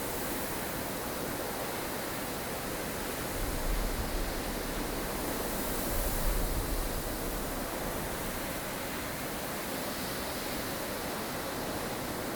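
Blustery snowstorm wind: a steady rushing noise with two stronger gusts, about four and about six seconds in, that add a low rumble.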